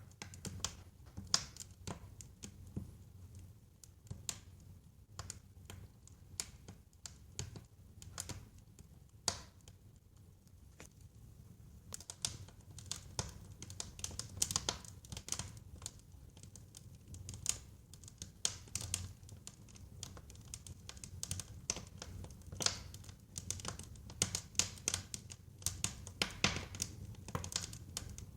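Wood fire burning in a fireplace, crackling with irregular sharp pops and snaps over a low, steady rumble. The crackles come thicker in the second half.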